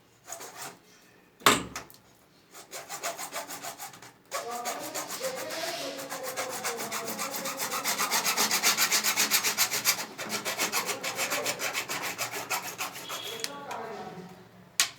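A sharp knock, then a hand saw cutting through plastic pipe in fast, even rasping strokes, most likely a hacksaw through CPVC pipe for the cold-water line.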